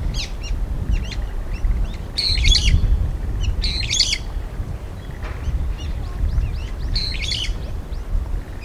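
Small wild birds chirping and calling outdoors, with scattered short chirps and three brief, busy bursts of song, over a steady low rumble.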